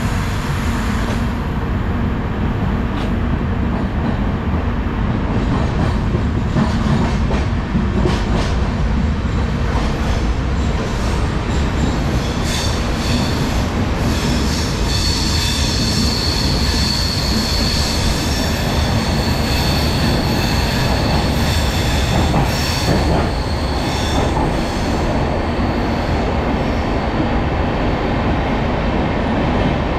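Intercity Express passenger coach running along the track, heard at its open door: a loud, steady rumble of wheels on rail with a few clacks. High-pitched wheel squeal sets in about twelve seconds in and fades out after about ten seconds.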